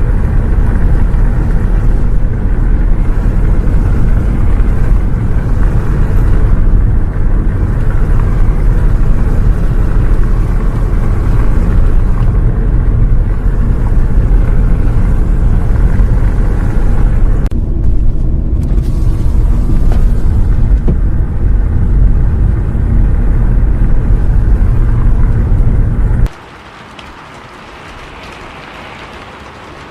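Loud, steady deep rumble of a bus in motion, heard from inside the cabin. It cuts off suddenly near the end and gives way to a much quieter steady hiss.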